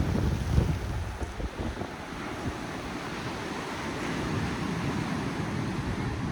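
Pacific Ocean surf washing steadily, with wind buffeting the microphone that eases after about a second.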